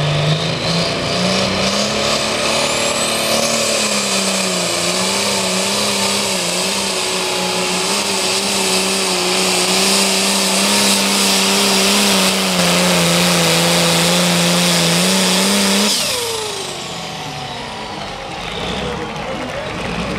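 A competition pulling engine at full throttle under load, its pitch climbing over the first couple of seconds and then held high and steady for about fourteen seconds under a loud rushing noise. About sixteen seconds in the throttle is cut and the engine pitch falls away as the pull ends.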